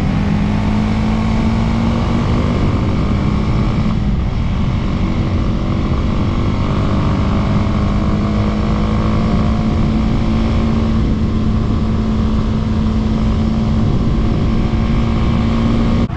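Dirt bike engine running at steady high revs while the bike is ridden, holding a nearly constant pitch, with heavy wind rumble on the microphone.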